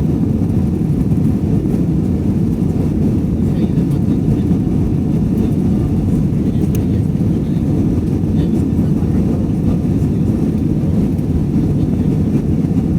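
Steady low rumble of an airliner heard from inside the passenger cabin: jet engine and airflow noise, unchanging in level.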